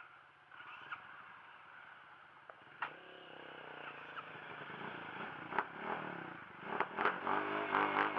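Dirt bike engine running, low at first and growing louder toward the end with changes in pitch as it revs, with a few sharp clicks and knocks over it.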